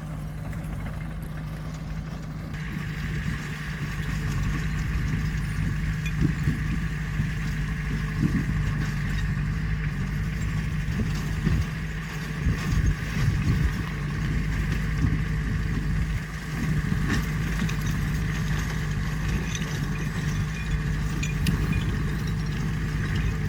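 Heavy earthmoving machine's engine running steadily at low revs, with a higher steady whine joining about two and a half seconds in.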